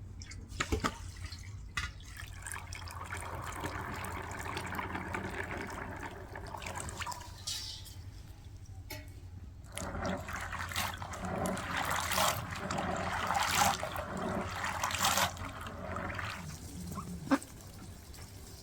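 Running water in two spells of a few seconds each, with small knocks and clicks of handling.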